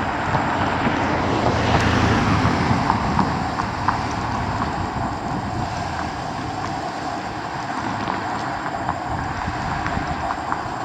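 Steady road and engine noise of a moving car, swelling briefly about two seconds in, with a few faint ticks.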